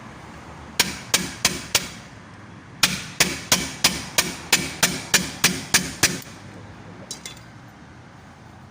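Repeated hammer blows: four quick strikes, a short pause, then about ten steady strikes at roughly three a second, followed near the end by a couple of light clinks.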